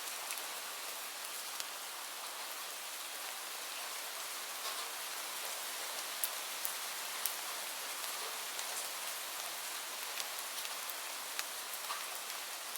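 Steady rainfall: an even hiss of rain with scattered individual drops striking a surface.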